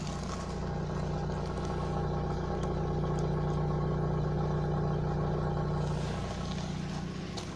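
Nissan Almera's GA16DE 1.6-litre four-cylinder engine running with the knock of its lower timing chain, the sign of a worn or slack chain. The engine note swells a little for a few seconds, then settles back.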